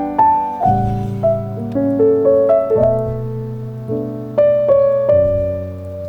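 Background piano music: a calm melody of struck notes over held chords, a new note roughly every half second.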